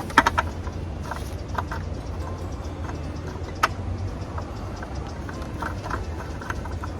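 Scattered light clicks and clinks of hand tools and parts being handled during outboard motor servicing, over a steady low hum.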